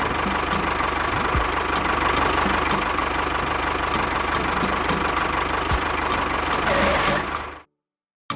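Small engine running steadily with a light regular ticking, about three ticks a second, cutting off suddenly near the end.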